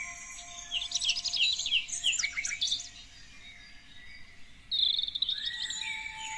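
Several songbirds singing and chirping: a quick flurry of high chirps and trills about a second in, a quieter lull, then another song phrase starting near the end.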